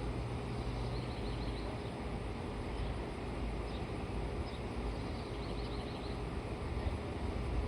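Faint, high bird chirps in two quick runs of notes, about a second in and again about five seconds in, over a steady outdoor background rumble.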